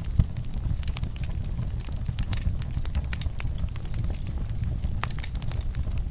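Wood fire crackling in a fireplace: irregular sharp pops and snaps over a steady low rumble, with one louder pop just after the start.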